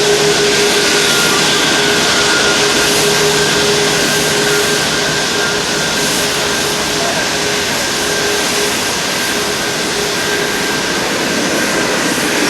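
Airbus A340-500's Rolls-Royce Trent 500 jet engines running, a loud steady roar with a steady whine over it.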